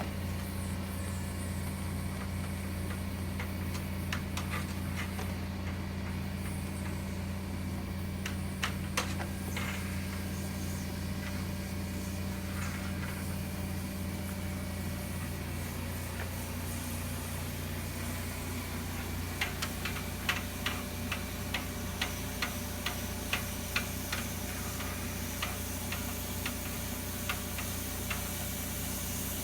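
Dryer vent cleaning equipment running with a steady low hum, with scattered light clicks and taps, a quick run of them over the later part.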